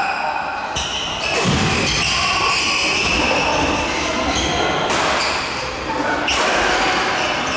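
Badminton hall during doubles play: court shoes squeaking on the floor and the knocks of rackets hitting the shuttlecock, over a background of voices.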